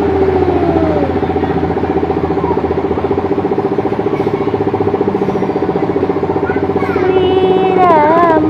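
A motor vehicle engine running steadily, with a falling tone in the first second and wavering pitched tones near the end.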